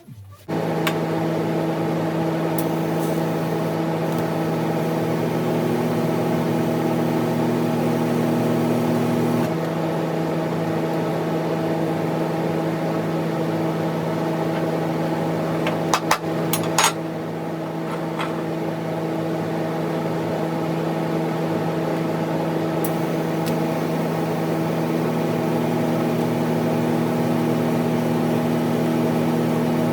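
An electric shop machine starts suddenly and runs with a steady motor hum. Its tone shifts about a third of the way in and again near the end, and a few sharp clicks sound just past the middle.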